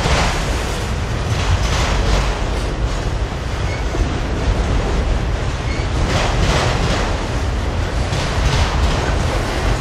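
Freight train cars rolling past: a steady rumble of steel wheels on rail, with short bursts of clatter recurring every few seconds as wheel sets pass over rail joints.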